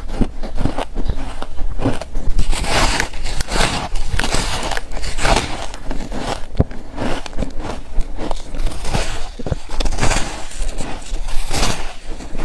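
Close-miked biting and chewing of layered freezer frost chunks: a dense, irregular run of crisp crunches and crackles as the frost breaks between the teeth.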